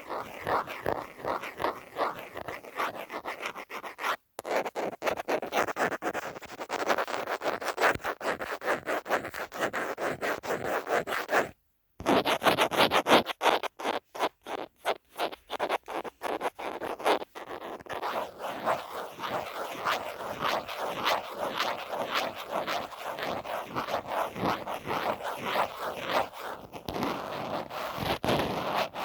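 Rapid, continuous scratching strokes on a phone case. The scratching stops briefly around 4 seconds in and again near 12 seconds, and the strokes come more sparsely for a few seconds after that.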